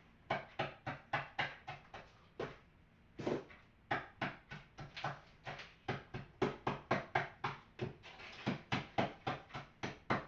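Oreo cookies being pounded to crush them into bits: a long series of quick sharp knocks, about three to four a second, with a couple of brief pauses.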